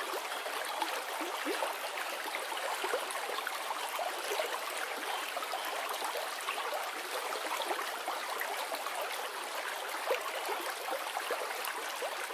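Running water, babbling steadily like a small stream.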